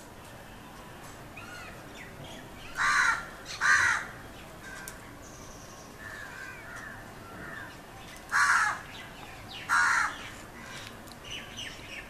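Birds calling: soft chirps and gurgling whistles, broken twice by a pair of loud, harsh caws a little under a second apart.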